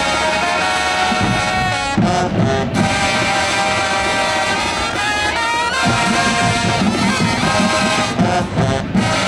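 High school marching band playing: the brass section holds loud chords over the drumline, with short accented hits about two seconds in and again near the end.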